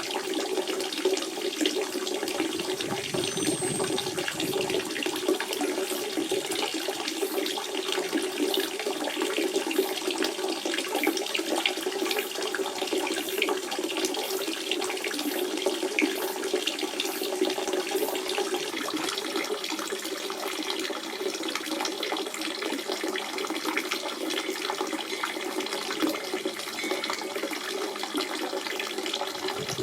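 Natural spring water running and splashing steadily, a continuous burble with a low rushing tone.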